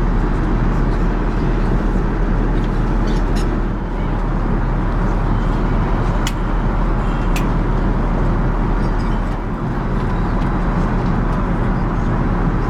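Steady cabin noise of an Airbus A380 in flight: an even, low rush of airflow and engines. Two faint clicks come a little past the middle.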